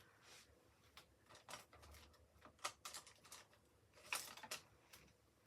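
Faint, scattered small clicks and taps of craft tools and a paste jar being handled on a desk.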